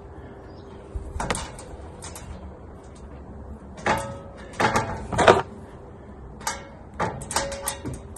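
Metal parts of a scroll saw stand (leg sections, nuts, washers and hex-head bolts) being handled and knocked together during assembly. There is a knock about a second in, a cluster of clanks around four to five seconds, and more around seven seconds, some ringing briefly.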